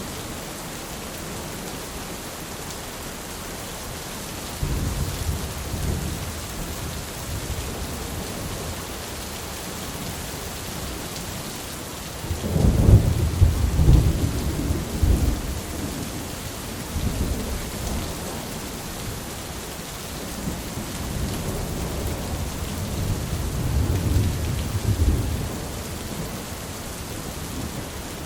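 Steady rain falling, with rolls of thunder rumbling low over it: a first roll about five seconds in, the loudest near the middle, and more rumbles rising and fading toward the end.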